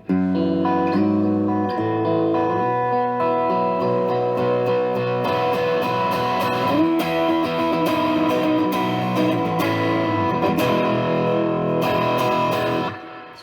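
Electric guitar played through a Klon-style Silverhorse mini overdrive pedal into a Boss Katana amplifier: loud, ringing overdriven chords and held notes that change every second or so. It starts abruptly and stops just before the end.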